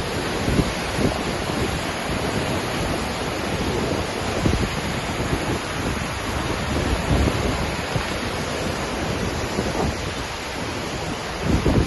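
Waterfall pouring: a steady, loud rush of falling water, with low gusts of wind buffeting the microphone now and then, strongest near the end.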